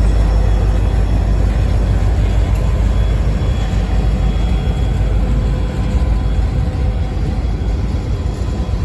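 Freight train passing close by: a loud, steady rumble of wheels on rail, easing slightly toward the end.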